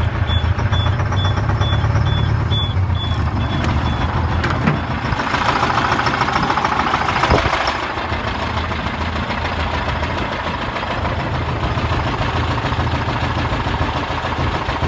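Detroit diesel engine running steadily just after an ether-assisted cold start. A high warning beeper sounds in regular pulses for about the first four seconds, and a rush of noise swells briefly around the middle.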